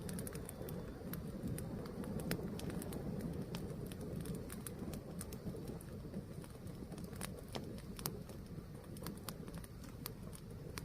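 A fire burning with a steady low rush and frequent irregular sharp crackles and pops.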